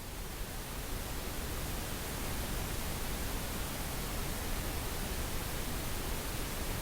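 Synthesized pink noise for sleep therapy: an even, steady hiss across all pitches, swelling up over the first second and then holding level.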